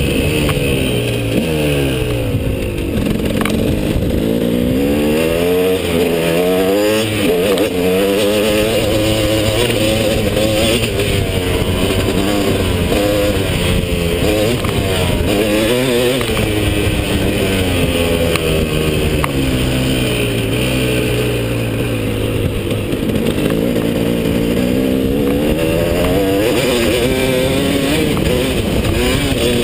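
KTM 250 SX two-stroke motocross engine under way, heard from on the bike, its pitch climbing and dropping again and again as the throttle is opened and closed.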